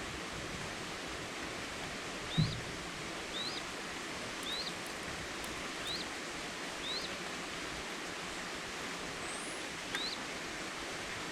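Forest ambience: a steady hiss with a bird repeating a short rising chirp about once a second, and a single low thump a little over two seconds in.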